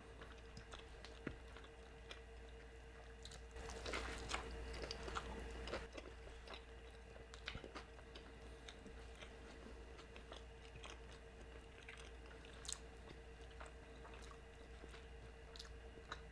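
Close-miked chewing and wet mouth sounds of someone eating a mouthful of Mexican food, louder for a couple of seconds about four seconds in. A faint steady hum sits underneath.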